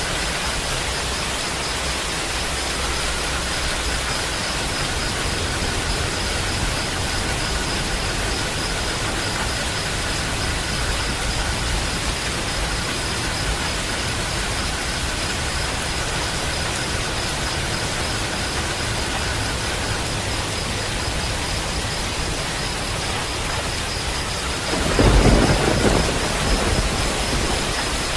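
Steady rain falling, with a loud rumble of thunder breaking about 25 seconds in.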